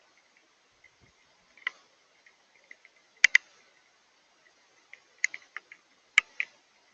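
Rain and snow dropping onto a hard surface: sparse, irregular sharp ticks, with a few louder double clicks about halfway through and again near the end.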